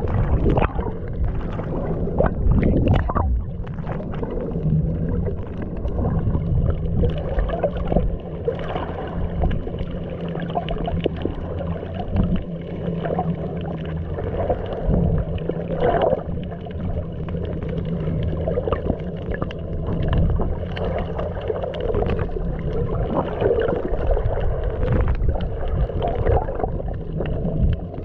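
Muffled underwater sound picked up by a submerged camera: a steady low hum with water rumble and frequent small clicks and bubbling crackles.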